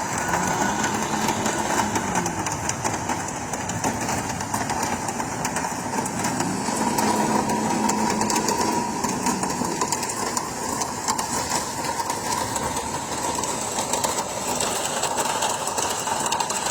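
Vehicle engine running, its pitch drifting slightly up and down, under a steady dense hiss.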